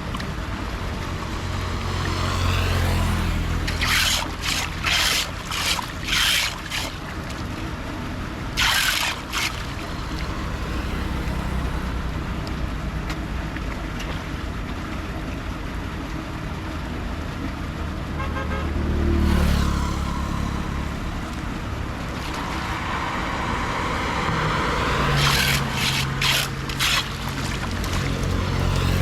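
An engine running steadily under a constant rush of flowing water, with several groups of short scraping bursts.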